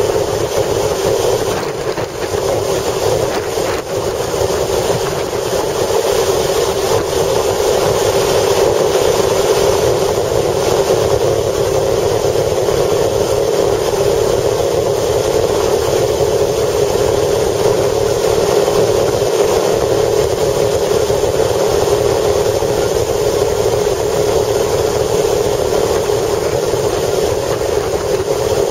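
Steady, loud rushing noise of strong wind together with a vehicle's running noise, with a constant low rumble underneath and no distinct events.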